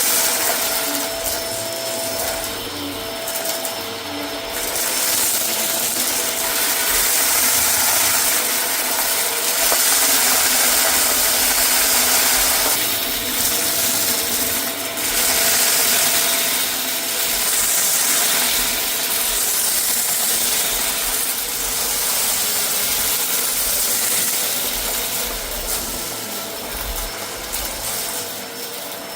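Vacuum cleaner running continuously, a steady rushing noise with a faint steady whine, its loudness rising and falling every few seconds.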